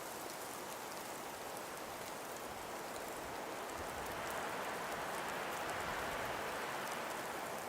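Steady breeze hissing through frost- and ice-covered forest trees, swelling in a gust about halfway through and easing off near the end.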